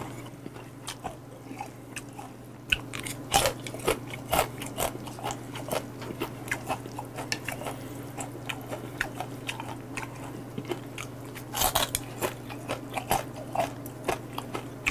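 Close-up chewing of raw, live-seasoned chilge (small sentinel mud crabs): the shells give irregular sharp crunches, heavier in two clusters, about three seconds in and again near the end.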